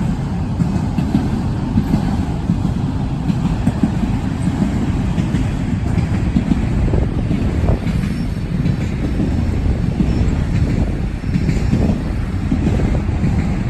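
Freight train of auto-rack cars rolling past: a steady, loud rumble of wheels on rail, with irregular clanks and knocks from the cars.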